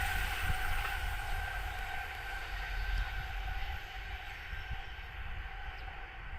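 E259 series Narita Express electric train running past and moving away. Its sound fades steadily, the high hiss dying first while a low rumble lingers.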